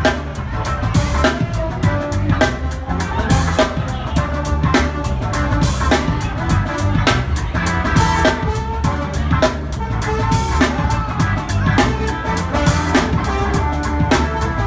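Live rock band playing, with the drum kit loudest: a steady beat of kick drum, snare and cymbals over bass and other pitched instruments.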